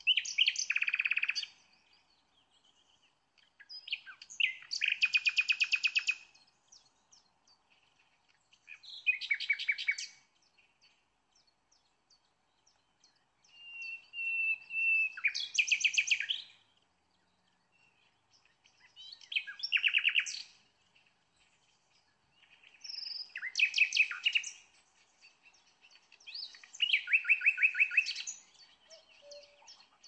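A songbird singing: seven phrases of rapid chirps and trills, each a second or two long, with short silent gaps between them.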